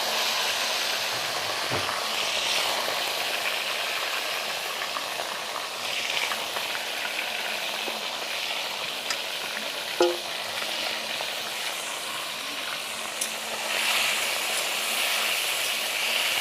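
Marinated chicken pieces sizzling in hot oil in a kadai, a steady frying hiss that swells a little near the end. A single sharp clink of a utensil comes about ten seconds in.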